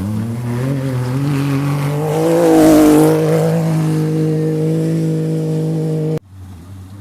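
Racing vehicle engine running at a steady high pitch as it passes close, loudest about two and a half to three seconds in. The engine sound holds, then cuts off suddenly near the end.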